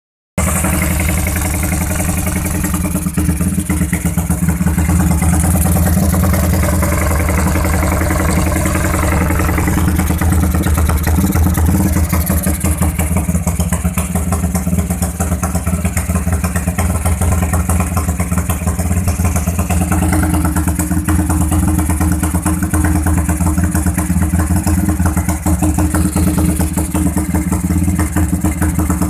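Motorcycle engine idling steadily through an RJM Progressive aftermarket exhaust muffler, a loud, deep, even pulsing note.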